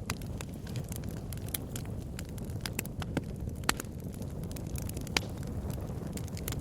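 Wood bonfire crackling: sharp, irregular pops and snaps over a steady low rumble, with a couple of louder pops about two-thirds of the way through.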